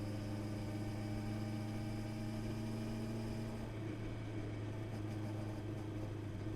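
Honda CB650R's inline-four engine running steadily at an even pitch under way. Its tone changes slightly about three and a half seconds in, with the highest part of the sound dropping away.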